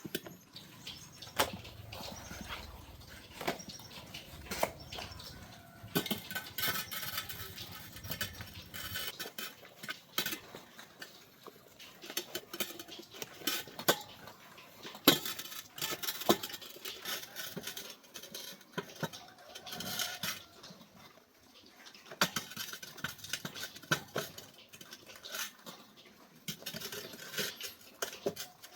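Irregular clinking and clattering of metal tools and parts being handled and set down, a string of sharp knocks with busier stretches of clatter.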